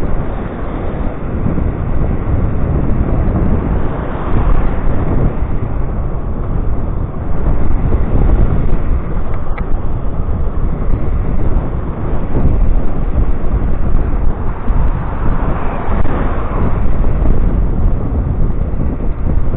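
Wind buffeting the microphone of a rider on a moving electric scooter: a loud, rough, steady rumble with no engine tone.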